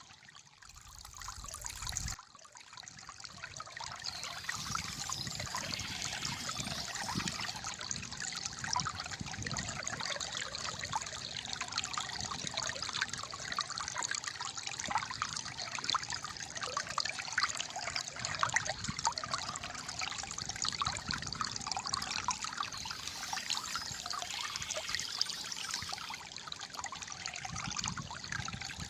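Calm flowing water trickling and gurgling steadily, quieter for the first couple of seconds before settling to an even level.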